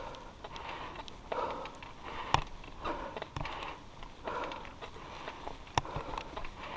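A cyclist breathing hard, a breath about every second and a half, with sharp clicks and knocks from the bicycle jolting over the trail.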